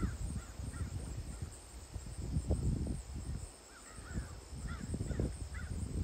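Birds calling in short, high, rising-and-falling notes, a few near the start and a cluster about four to five seconds in, over a low, uneven rumble.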